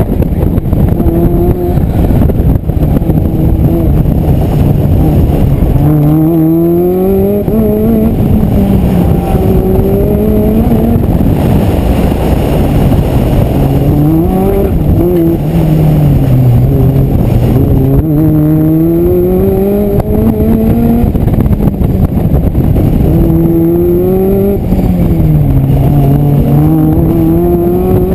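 Mazda Miata roadster's four-cylinder engine, heard from inside the open cockpit, repeatedly revving up and dropping back as the car accelerates and slows through an autocross course. A steady rush of wind and road noise runs underneath.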